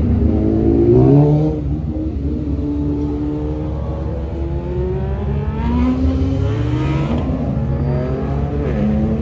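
Car engines revving over a steady low engine rumble, the pitch climbing in several long sweeps.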